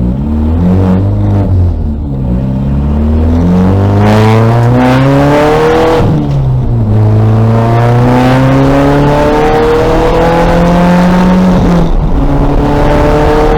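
2000 VW Golf race car's engine accelerating hard. Its pitch climbs steadily, then drops abruptly at gear changes about two, six and twelve seconds in.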